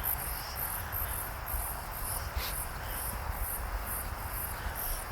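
Crickets chirping steadily in a very high-pitched, even rhythm of about two chirps a second, over a low background rumble.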